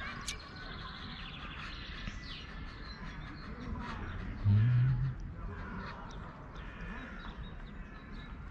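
Birds calling and chirping over a steady outdoor hiss, with a short, loud, low hum about halfway through.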